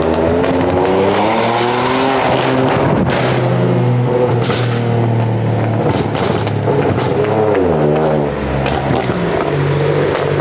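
A car engine revving, its pitch rising and falling several times, with sharp exhaust pops scattered throughout.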